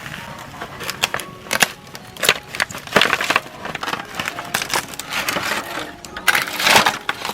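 A series of irregular sharp cracks and crunches, the loudest cluster about six to seven seconds in.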